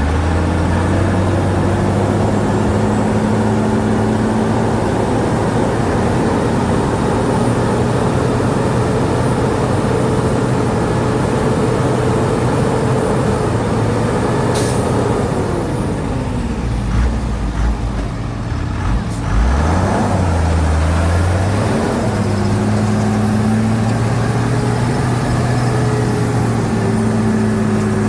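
Bulldozer's diesel engine working steadily under load. About 15 seconds in the engine eases off and dips, then revs back up and holds again from about 21 seconds in. There is a short sharp click about halfway through.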